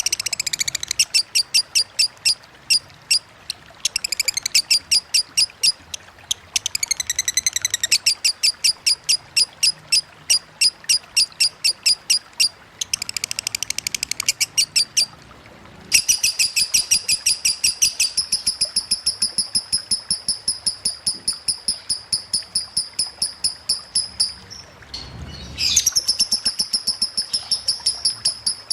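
Lovebird singing a konslet-style 'ngetik' song: long runs of rapid, sharp, high chirps, about six a second, broken by a few short pauses. The longest run goes unbroken for about eight seconds from the middle.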